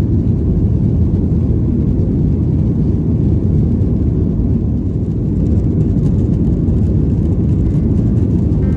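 Steady low rumble of a Boeing 737-800's engines and airflow heard inside the passenger cabin, at a constant level.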